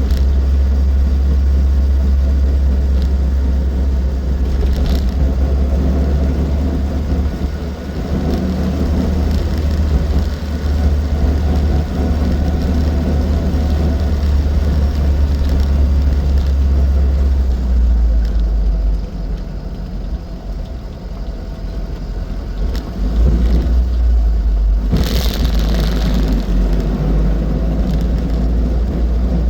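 Austin 7 Ruby's small four-cylinder side-valve engine and road noise on the move, a steady low rumble that eases off for a few seconds past the middle and then picks up again. A short hiss comes about 25 seconds in.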